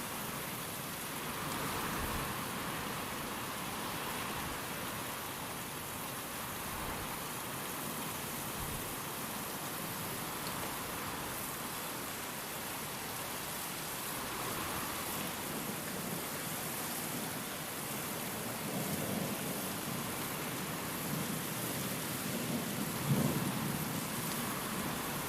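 Steady heavy rain with wind swelling and easing. Near the end a low roll of thunder builds up and peaks sharply.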